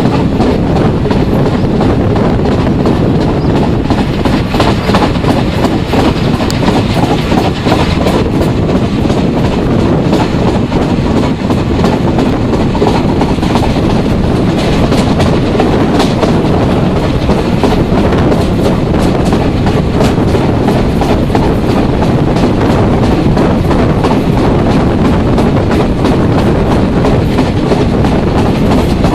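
Train of wagons hauled by a South African Railways Class 24 steam locomotive, running along the track: a loud, steady rumble of wheels on rail, with clicking over the rail joints.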